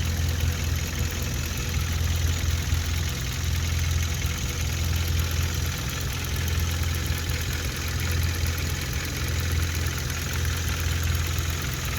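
2016 Hyundai Veloster Turbo's 1.6-litre turbocharged direct-injection four-cylinder idling steadily, with the rattly, ticking clatter typical of direct-injection engines. The idle sounds fairly normal just after an intake valve cleaner treatment.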